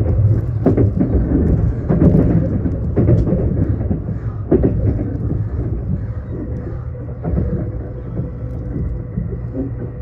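Passenger train running at speed, heard from inside the carriage: a steady low rumble of wheels on rail with a faint steady hum above it and irregular clacks over the rail joints.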